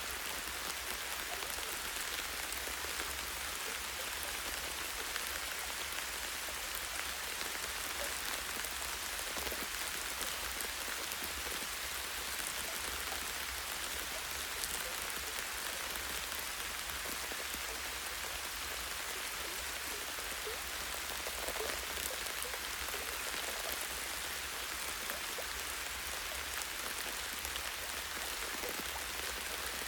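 Light, steady rain falling on the leaves and branches of a tree, a constant hiss with many small drop patters.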